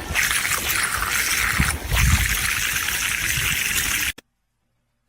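Steady rush of running water, cutting off abruptly about four seconds in.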